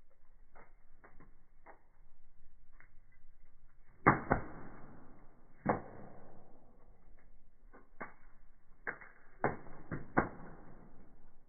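Firewood burning in a fireplace, crackling with irregular sharp pops, each dying away quickly; the loudest pop comes about four seconds in, and a quick run of pops follows near the end.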